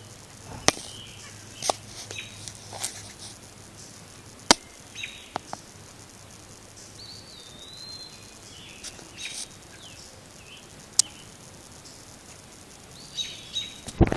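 A few short, high bird chirps, around the middle and again near the end, among scattered sharp clicks and taps.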